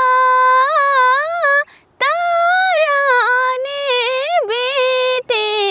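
A woman singing a Nepali song in a high voice, holding long, ornamented notes. She pauses briefly about two seconds in before the next phrase.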